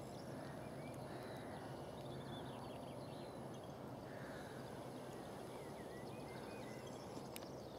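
Faint outdoor background noise with a steady low hiss, and distant birds chirping now and then. A single faint click comes near the end.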